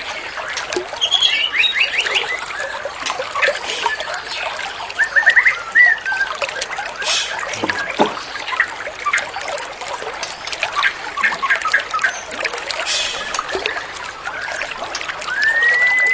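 Songbird chirps and short whistled phrases over steady trickling, splashing water. A longer arched whistle comes near the end.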